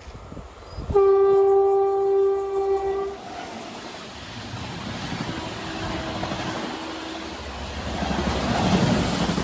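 Express train's locomotive horn sounding one long blast about a second in, lasting about two seconds, followed by the train's rumble and rail noise building as it comes through at speed, loudest near the end.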